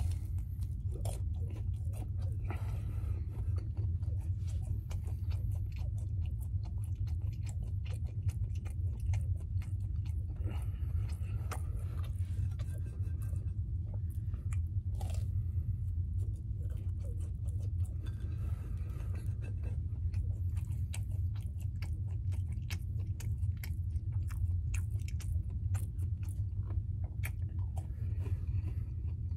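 Close-miked chewing of French toast sticks: many wet mouth clicks and smacks, with no speaking. Under it runs a steady low hum.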